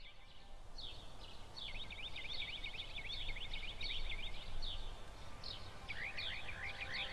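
Birds chirping in quick runs of short, high chirps over a low, steady background hiss.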